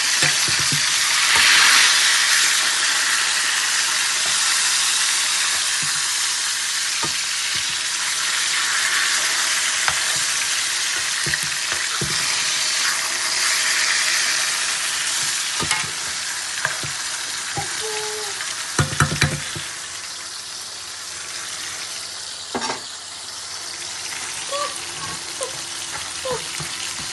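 Masala frying and sizzling in a pan as it is stirred, with a few knocks of the spoon against the pan.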